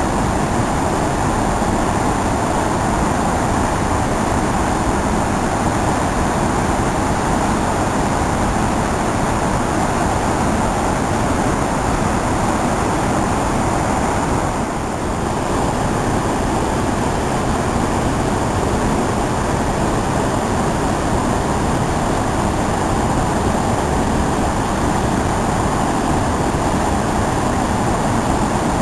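River waterfall: a loud, steady rush of falling water, briefly a little softer about halfway through.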